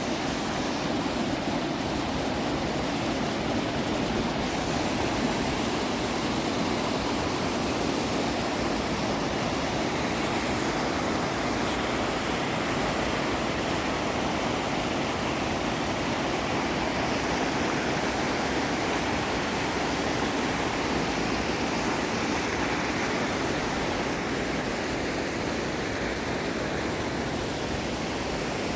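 Mountain valley stream rushing steadily, a continuous even wash of water noise.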